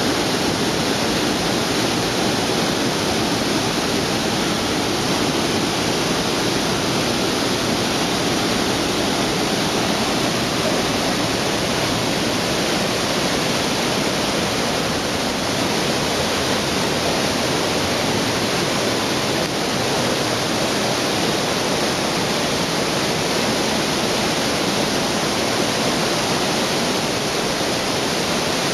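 A broad curtain waterfall, about 10 m high and 20 m wide, splashing steadily into its pool. It makes an even rush of water that doesn't change.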